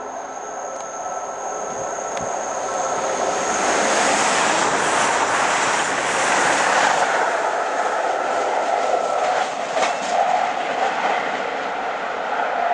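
CrossCountry Voyager diesel-electric multiple unit passing at speed: the rush of its wheels and the running of its underfloor diesel engines build to a peak midway. The sound changes abruptly near the end to a steadier tone as another Voyager approaches.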